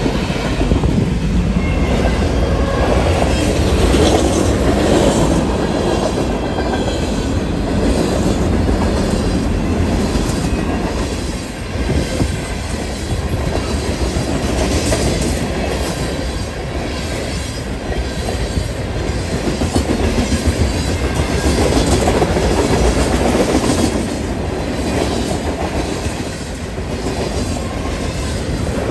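BNSF mixed freight train's cars rolling past close by: a steady, loud rumble of steel wheels on rail with repeated clicking as the wheel sets pass over the rail joints.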